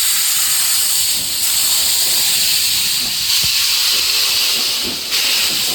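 Steam locomotive blowing off steam: a loud, steady hiss, shifting slightly in strength about a second and a half in and again near the end.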